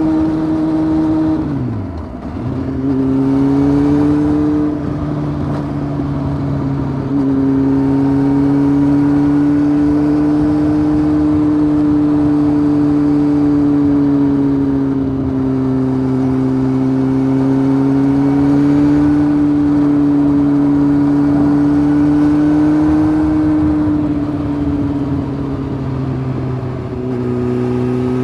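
Honda CBF 600's inline-four engine, fitted with a titanium sport exhaust, running at steady cruising revs from the rider's position. The revs drop sharply about two seconds in and then pick up again, and they sag a little once more near the end.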